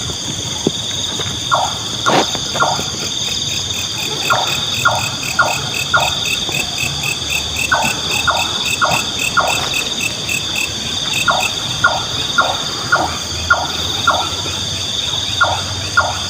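Nightjar repeating a short call about twice a second, in runs of several calls with short pauses between. A steady chorus of crickets and other night insects runs underneath.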